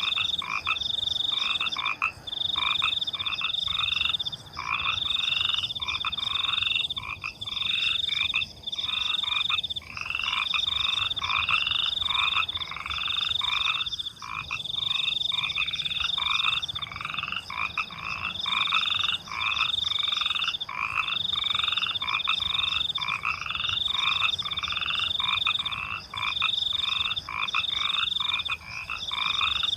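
A chorus of frogs croaking at night in a steady, even rhythm of about one and a half calls a second, with crickets chirping in a higher band behind them.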